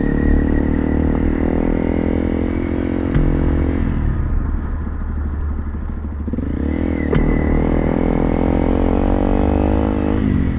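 Honda CRF300 Rally's single-cylinder four-stroke engine running as the bike is ridden at low speed. The revs drop about four seconds in, pick up again a couple of seconds later, and fall away near the end.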